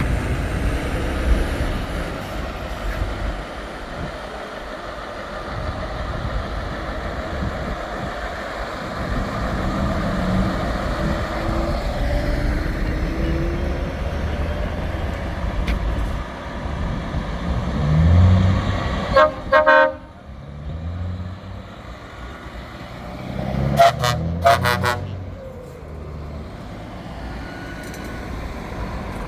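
Trucks driving past with their diesel engines running, one revving up just before a horn blast about two-thirds of the way in. A few seconds later come several short toots of a truck horn.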